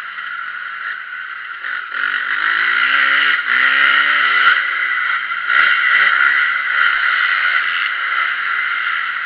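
Motocross bike engine revving, its pitch rising and falling several times over a steady high-pitched engine noise.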